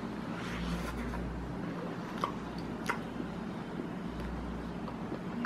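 A person biting into and chewing a wafer ice cream sandwich: soft, quiet mouth sounds with a few faint clicks over a low background hum.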